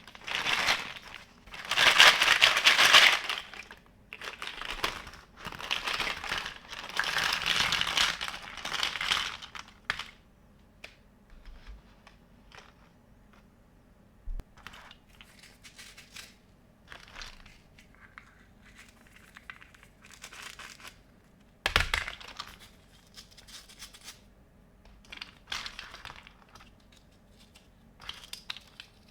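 Handling of a plastic kids' kitchen playset. Long crinkling, tearing noises fill the first ten seconds, followed by scattered light clicks and taps and one sharp knock near the end.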